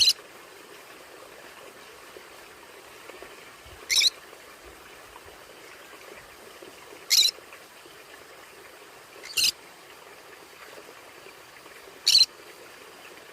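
A conure giving short, sharp, high-pitched calls, five in all, a few seconds apart, over a faint steady hiss.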